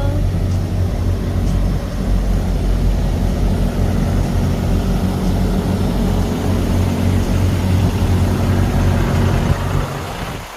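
Truck engine running with a steady low drone, dropping away sharply near the end.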